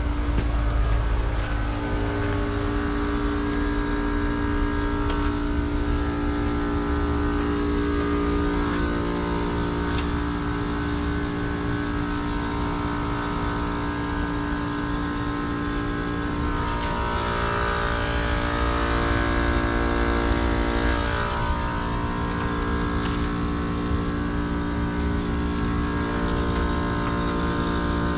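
2009 Carrier heat pump outdoor unit running: a steady machine hum made of several held tones that shift in pitch for a few seconds about two-thirds of the way through, with a low rumble underneath.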